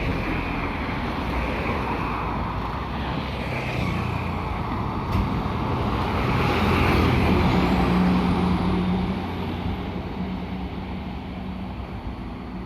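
Moving road vehicles: a steady rumble of engines and tyres that swells to its loudest about six to nine seconds in, with a steady low hum near the peak, then eases off.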